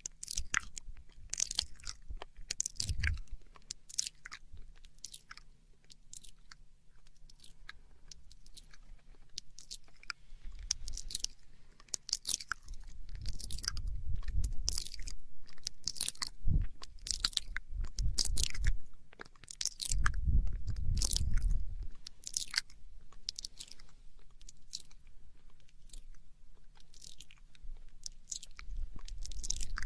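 Close-up ASMR mouth sounds: a rapid, irregular run of wet clicks and smacks from tongue and lips, with a few spells of low rumble in between.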